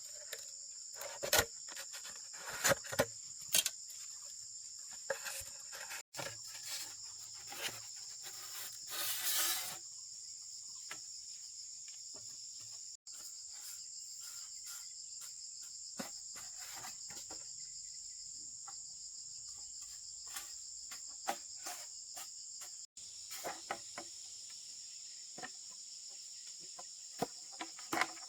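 Steady high-pitched chirring of insects, with scattered sharp clicks and knocks from handling and a brief burst of rustling about nine seconds in.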